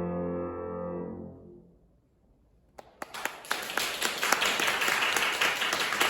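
A piano's final chord ringing and dying away, a second of quiet, then people clapping, starting about three seconds in and continuing.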